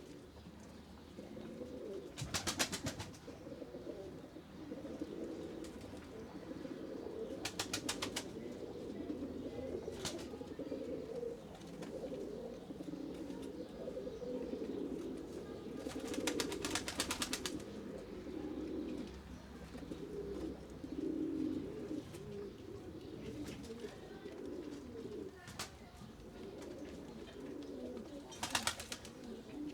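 A flock of pigeons cooing continuously in overlapping low calls. Several short bursts of rapid clicking cut through it, the longest about a second and a half, near the middle.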